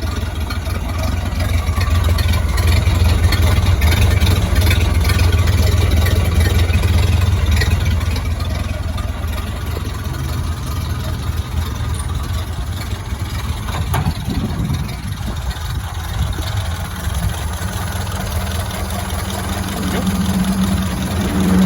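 1931 Ford Model A truck's four-cylinder engine idling steadily, somewhat louder in the first several seconds; a higher steady hum joins in the last few seconds.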